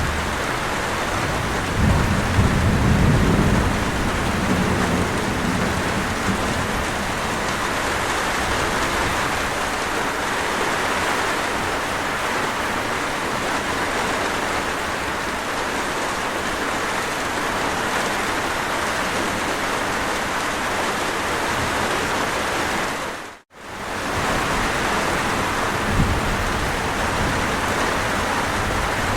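Steady heavy rainfall with low rumbles of thunder, the strongest about two seconds in and another shorter one near the end. The sound dips out to silence for an instant about three-quarters of the way through, then fades straight back in.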